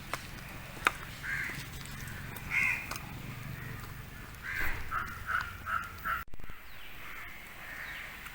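Bird calling outdoors: a few short calls spaced out, then a quick run of about six calls around five to six seconds in. Two sharp clicks come within the first second.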